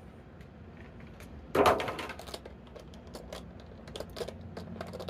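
Small plastic figure accessories and their packaging being handled. One louder burst of handling noise comes about one and a half seconds in, followed by a run of light clicks and taps.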